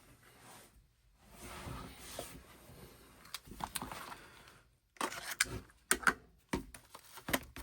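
Album packaging being opened and handled: a soft sliding, rustling sound for a few seconds, then a run of sharp clicks and taps.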